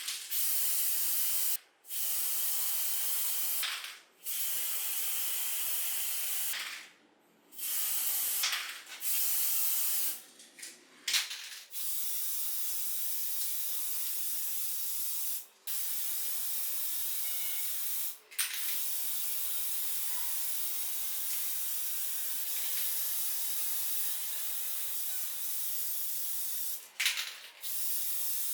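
Compressed-air spraying hissing in long bursts of a few seconds each, switched off and on again with short breaks between.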